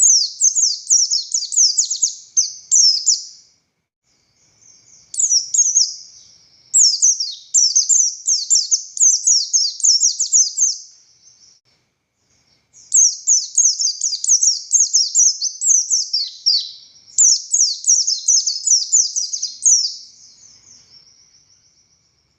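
A white-eye (pleci buxtoni) singing in three long bursts of rapid, high, downward-slurred chirps, the last fading into a quieter twitter near the end.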